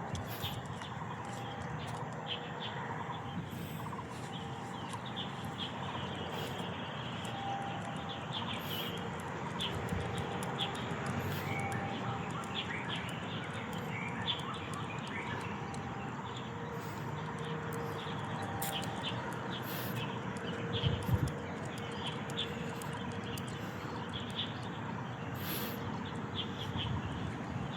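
Many birds chirping with short, repeated calls, over a steady background hum.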